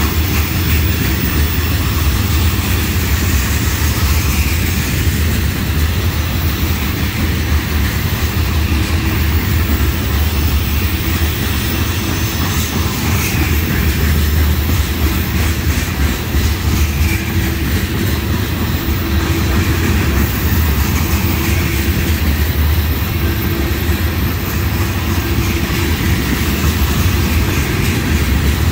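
Freight train of railroad tank cars rolling steadily past at close range: a loud, deep, continuous rumble of steel wheels running on the rails.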